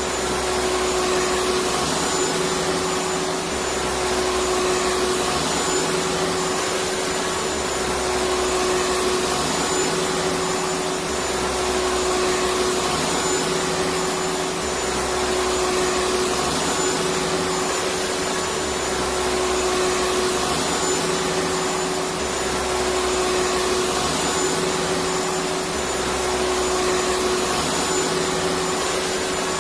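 Electric vacuum cleaner running continuously: a dense, steady rush of air with a constant hum and a faint high whine, its low end swelling and easing about every two seconds.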